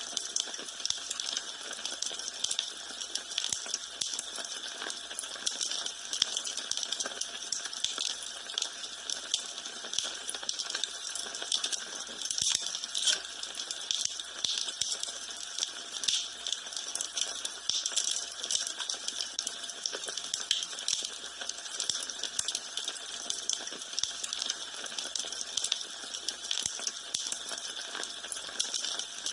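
Wood fire in a fireplace crackling and popping steadily, a dense run of small sharp snaps over a soft hiss of burning.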